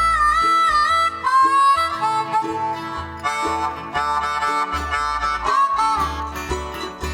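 Harmonica playing a solo of held notes with bends and slides, over strummed guitar and a walking bass, in a live bluegrass band.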